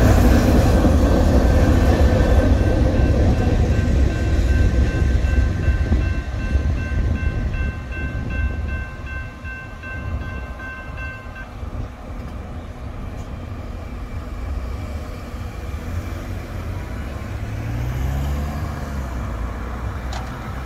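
Freight cars rumbling past over the rails, the sound fading over the first several seconds as the end of the train goes by, while the grade crossing bell rings in a steady pulsing pattern until it stops about eleven seconds in. Near the end a car engine passes as a vehicle drives over the crossing.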